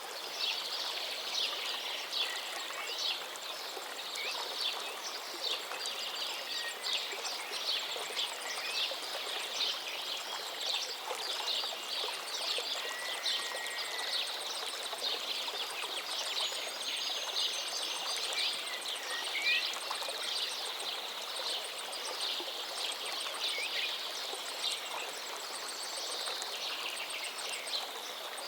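A river running steadily, with many small birds chirping and calling over it throughout and a few whistled notes.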